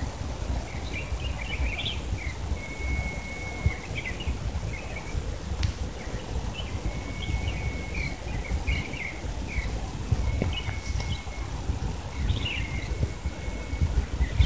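A songbird singing a repeated phrase, a held high whistle followed by a quick flurry of chirps, coming round every two to three seconds over a steady low rumble of outdoor noise.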